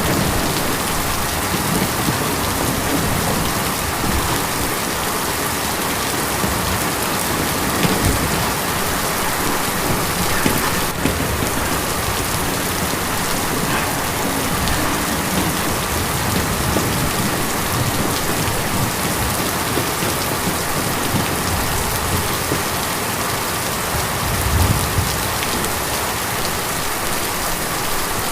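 Heavy rain drumming steadily on a tin roof, a dense even patter, with a couple of brief low rumbles, one about a third of the way in and another near the end.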